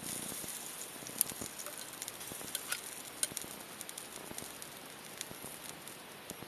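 Wood fire crackling: a steady hiss with irregular sharp pops, a few each second.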